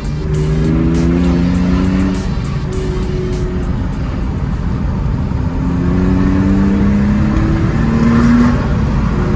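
BMW E30's inline-six engine, heard from inside the cabin, pulling hard through the gears. The note climbs, drops at a gear change about two seconds in, climbs again from about halfway, and drops once more near the end.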